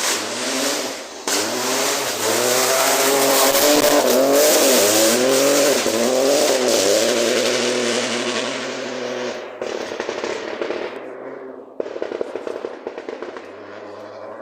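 Rally car on a forest stage passing at speed, its engine revs rising and dropping repeatedly through gear changes. It is loudest a few seconds in, then fades away, with a fainter engine note near the end.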